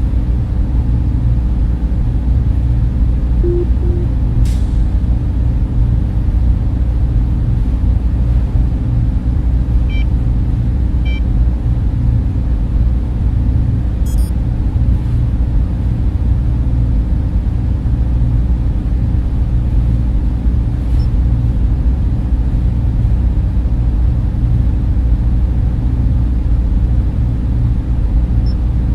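Server room ambience: banks of cooling fans running in a steady low rumble with a hum, broken only by a few faint ticks.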